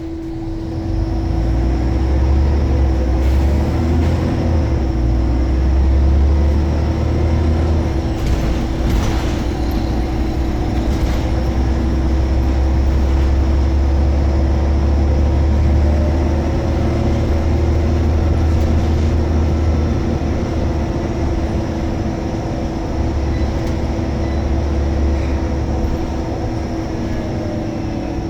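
Scania L94UB Omnicity single-deck bus running: a loud, steady low engine drone with a constant steady whine above it. The drone comes up about a second in and eases and strengthens a little over time, with a few faint clicks near the middle.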